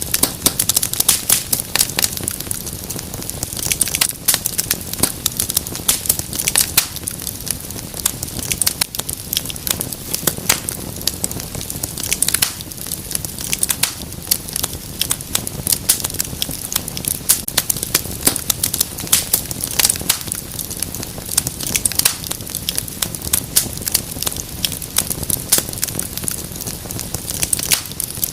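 Wood fire crackling: dense, irregular sharp snaps and pops over a steady low rumble of burning.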